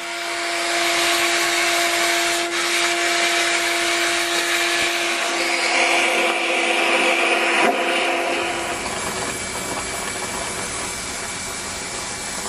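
Vacuum cleaner running: a steady rush of air with a steady hum over it. The hum fades out about eight or nine seconds in, leaving the rushing noise.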